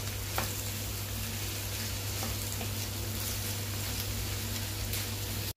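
Beef strips with onion and garlic sizzling in a nonstick frying pan while a wooden spatula stirs them, with a few light taps of the spatula against the pan. The sound cuts off suddenly near the end.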